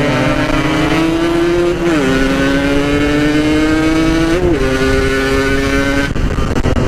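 Yamaha RX-King two-stroke single-cylinder engine pulling under load, its pitch climbing slowly, then dropping sharply with an upshift about two seconds in and again about four and a half seconds in. Near the end the steady note breaks off as the throttle eases.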